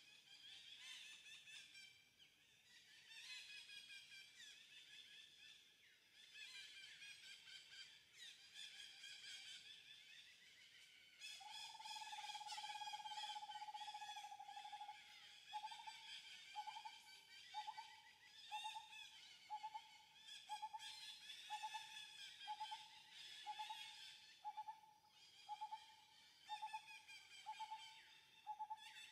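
Faint outdoor chorus of birds chirping. Partway through, one clear note is held for a few seconds, then repeats as short notes at the same pitch, a little over one a second.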